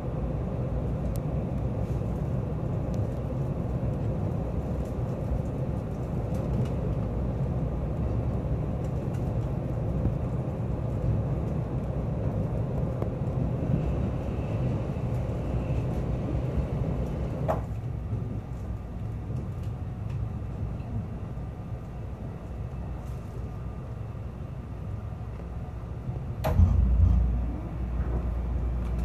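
Running noise of a train heard from inside the carriage: a steady low rumble of wheels on rail that grows quieter as the train slows. A short sharp squeal comes about two-thirds of the way in, and a sudden loud knock followed by a heavy low rumble comes near the end as it draws into a station.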